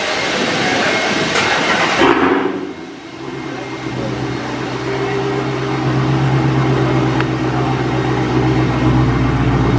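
Broad outside noise that cuts off sharply about two seconds in, as a car door shuts. It gives way to the steady low hum of a Dodge Hellcat's supercharged V8 idling, heard from inside the cabin and growing slowly louder.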